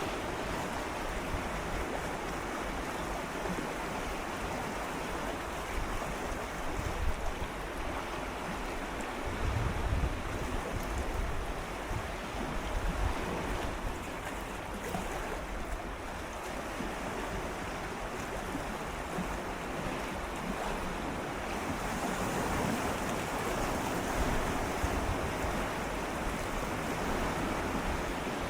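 Gentle sea waves swirling and lapping against shore rocks, a steady wash with small swells every few seconds and a deeper surge about ten seconds in. Some wind noise on the microphone.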